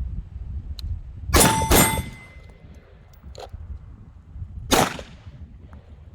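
Three gunshots, two in quick succession and then one about three seconds later, with a metallic ring after the first pair like a steel target being hit.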